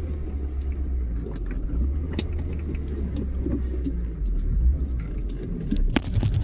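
Steady low rumble of a 1993 C4 Corvette's V8 engine and exhaust, heard from inside the car, with a couple of sharp clicks.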